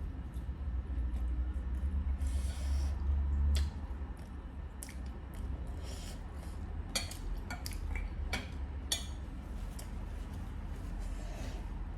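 Eating utensils clicking and clinking against a bowl of ramen noodles, with a few short hissy eating sounds between the clicks, over a steady low hum.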